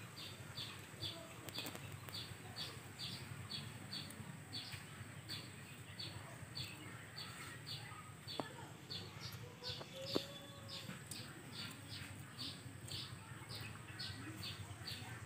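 A small bird chirping over and over, short high chirps at about three a second, with a sharp click or two, the loudest about ten seconds in.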